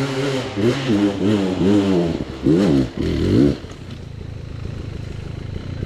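Chinese enduro motorcycle engine revving with quick throttle blips that rise and fall in pitch, then dropping to a quieter, steady idle about three and a half seconds in.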